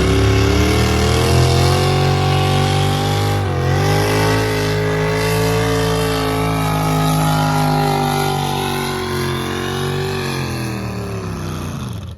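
Engine of a pulling vehicle running hard under load: the pitch climbs at the start and holds steady, with a brief dip about three and a half seconds in, then falls away near the end and drops off sharply.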